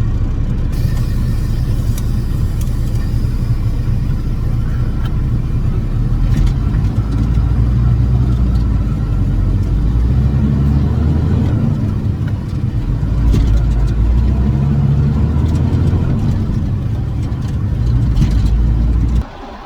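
Heavy diesel farm-vehicle engine running under load, a loud, low drone whose pitch rises and falls as it revs.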